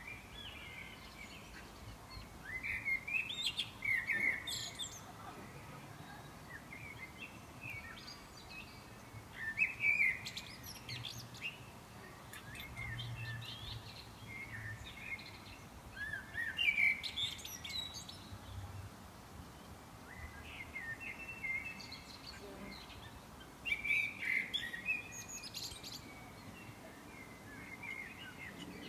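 A songbird singing in short bursts of quick chirping notes, one burst every six to seven seconds, with fainter chirps between, over a steady background hiss.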